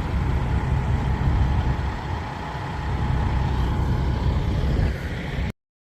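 Low, steady rumble of a semi truck's diesel engine running, which cuts off abruptly near the end.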